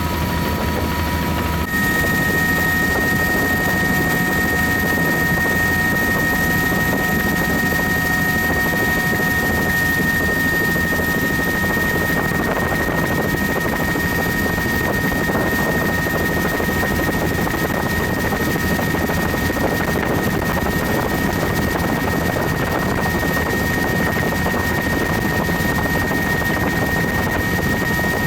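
Helicopter in flight, its rotor and turbine running steadily, heard from inside the cabin with the doors off, with loud air rush over the microphone and a steady high whine. The whine shifts slightly about two seconds in.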